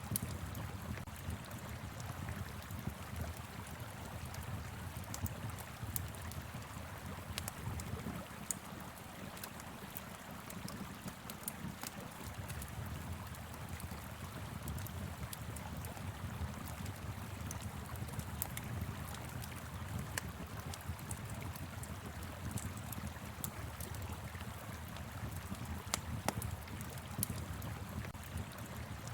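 Wood fire crackling with scattered sharp pops over the steady rush of a flowing river and a low wind rumble.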